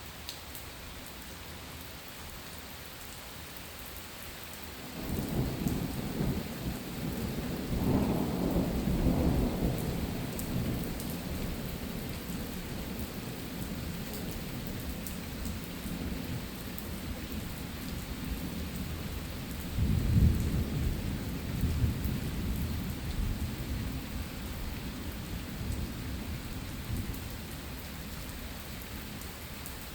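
Steady rain falling in a thunderstorm. About five seconds in, thunder starts rumbling, swells for several seconds and slowly fades; a second rumble of thunder comes about twenty seconds in.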